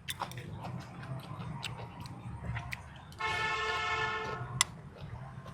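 A horn sounds once, a single steady tone lasting just over a second about three seconds in, over scattered small clicks and a low background hum.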